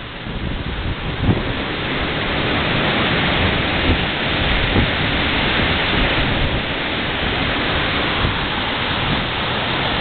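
Tropical-storm wind gusts: a loud, steady rushing that builds over the first couple of seconds and then holds, swelling slightly, with low rumbling thumps from wind buffeting the microphone.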